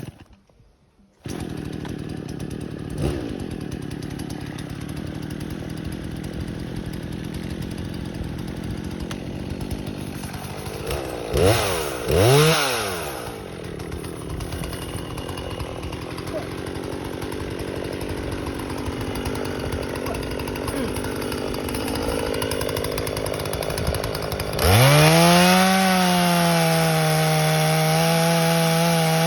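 Chainsaw engine running at a low, steady speed, revved up and back down once about halfway through. Near the end it is held at high revs with a loud, steady whine.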